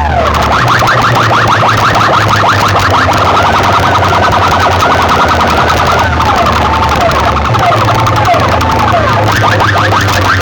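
Electronic siren and car-alarm-style effects blasting through a loudspeaker sound system. A rapid warble gives way to slower wailing sweeps about six seconds in, then turns rapid again near the end, all over a steady deep bass hum.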